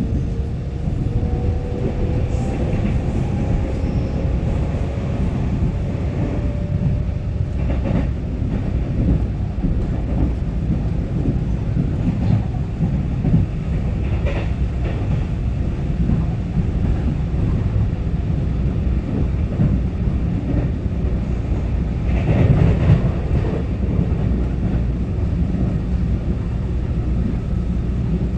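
Steady rumble of an EMU900-series electric multiple unit's wheels on the rails, heard inside the passenger car at speed, with occasional clicks and knocks over rail joints. In the first few seconds a faint rising whine comes from the traction motors as the train gathers speed.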